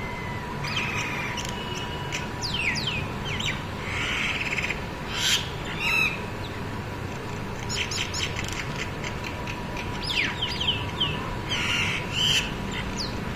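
Several birds calling and squabbling: many quick, high, downward-sweeping chirps mixed with harsh squawks, over a steady low rumble.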